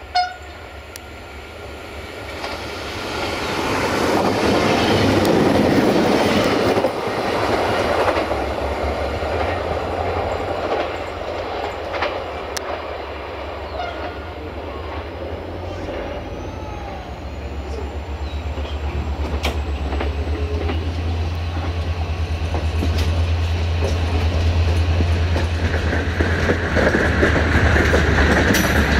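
A passenger train hauled by a Sulzer-engined 060-DA diesel-electric locomotive pulls away and gathers speed. The carriage wheels rumble and clack over the rail joints, and the locomotive's diesel throbs lower down, growing stronger as it works. A sharp knock comes right at the start, and a steady high whine joins near the end.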